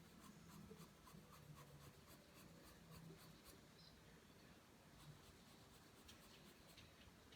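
Pencil drawing lines on paper: faint, repeated short scratching strokes.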